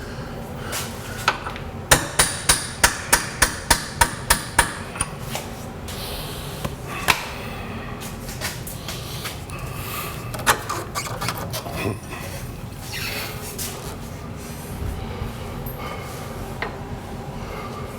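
Hammer striking metal: a quick run of about ten ringing blows, about four a second, then scattered single knocks and clanks.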